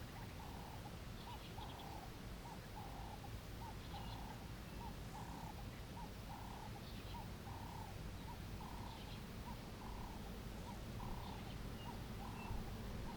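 Faint repeated animal calls, a short note alternating with a longer one about twice a second, with a few faint high chirps now and then, over a low steady rumble.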